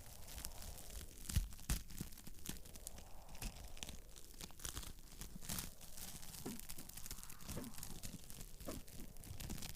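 Wood fire in a fireplace crackling, with irregular sharp pops over a faint hiss and a few soft whistling notes from the burning wood.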